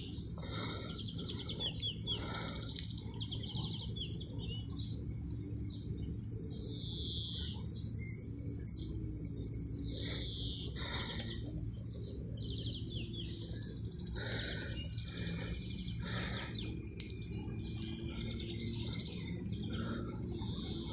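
Steady high-pitched chorus of insects with rhythmic chirping pulses, and birds calling now and then over a low steady background rumble.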